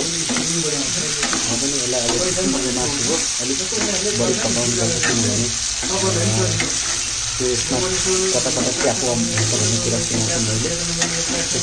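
Pork and potato curry sizzling in hot oil in a pan while a metal spatula stirs it, with short scrapes and clicks of the spatula against the pan.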